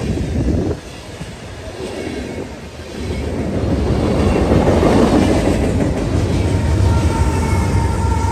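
Norfolk Southern manifest freight train rolling past close by: tank cars and covered hoppers. The sound drops back for a couple of seconds about a second in, then a heavier low rumble builds. Near the end, mid-train diesel locomotives go by with a steady whine over the rumble.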